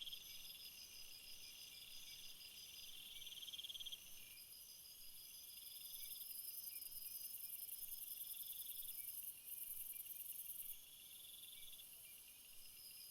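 Chorus of crickets and other insects: several overlapping high, pulsed trills that start and stop every second or two, over a higher continuous buzzing that weakens near the end.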